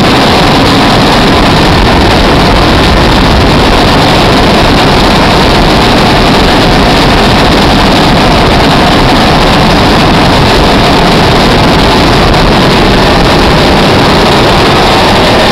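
Military helicopter's engine and rotor noise, loud and steady throughout.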